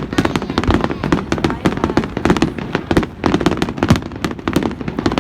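Fireworks going off in a rapid, continuous string of crackling bangs and pops, with voices underneath.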